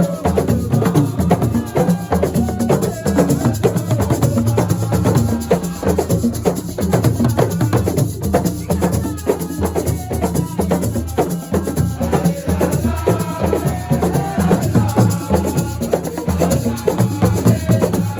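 Live assiko percussion music: drums with shakers and rattles keeping a fast, steady beat. A melody runs over it, clearest in the second half.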